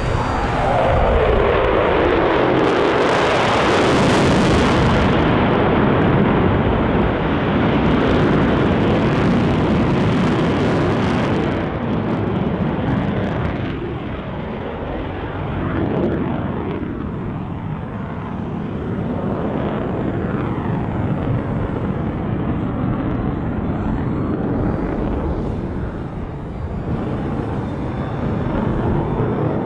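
F-22 Raptor's twin jet engines roaring as the jet flies past, the pitch falling away in the first few seconds, then a steady jet roar that rises and fades as it manoeuvres.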